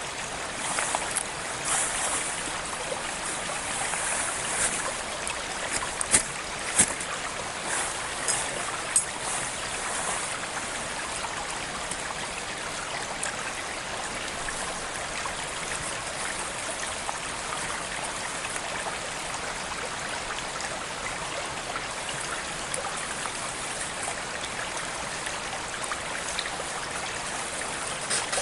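Steady rushing of a flowing stream, with a few sharp clicks and snaps in the first ten seconds, the loudest about six and seven seconds in.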